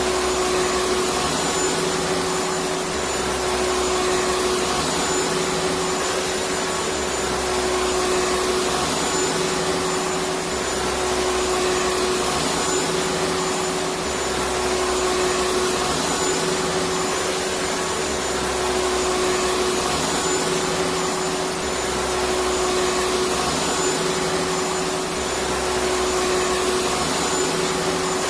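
Electric vacuum cleaner running continuously with a steady whooshing roar and a steady motor hum. Underneath, a low rumble swells and fades in a regular cycle every two to three seconds.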